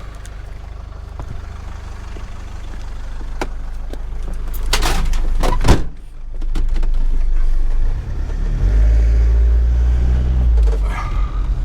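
A car door shutting with a thud near the middle, then the vehicle's engine running as it drives off, getting louder over the last few seconds.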